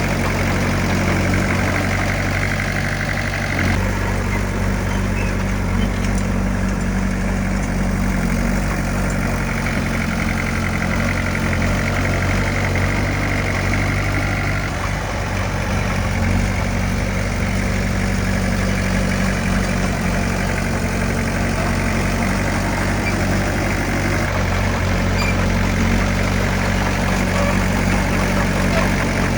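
Heavy earthmoving machine's diesel engine running steadily at a low, even speed, with small shifts in its note about 4 and 15 seconds in.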